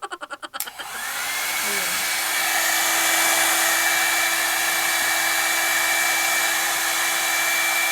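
Revlon One-Step hair dryer and volumizer switching on: a brief fast rattle, then the motor spins up with a rising whine and settles into a steady rush of blowing air with a constant hum and a high whine.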